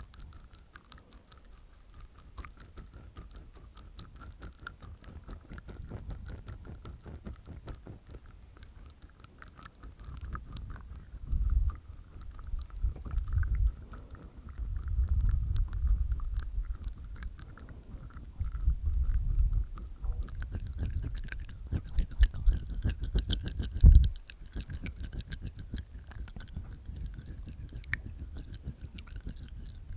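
Close-miked ASMR mouth sounds made inside the mouth with the tongue and teeth: a dense run of small clicks, with heavier low thumps in bursts through the middle and one sharp loud one about four-fifths of the way through.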